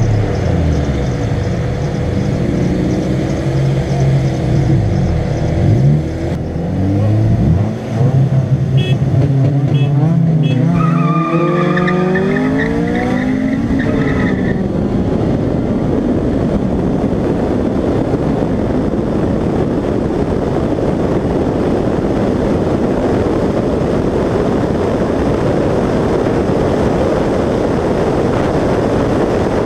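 Honda B-series VTEC four-cylinder engines racing at full throttle, the pitch climbing and dropping several times over the first ten seconds or so as the cars shift gears. From about fourteen seconds in, the engine sound gives way to a steady roar of wind and road noise on a camera mounted outside the car at speed.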